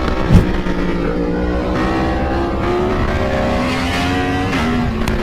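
Sport-bike engine running hard, its pitch rising and falling as the rider accelerates and shifts gears, with a sharp thump about half a second in.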